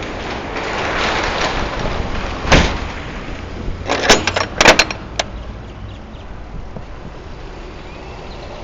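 A box truck's roll-up rear door rolling and coming down with one loud bang about two and a half seconds in, then a quick run of sharp metal clanks, likely the latch and handle, a little later.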